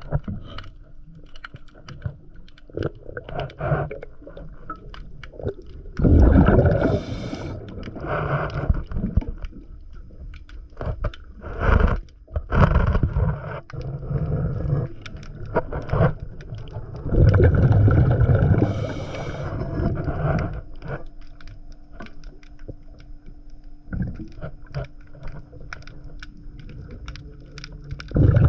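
Underwater sound of a scuba diver breathing through a regulator: bursts of exhaled bubbles gurgle every few seconds, with many small clicks and a faint steady hum between breaths.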